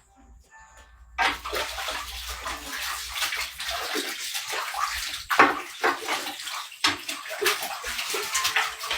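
Water running and splashing, starting about a second in and going on unevenly with many small splashes.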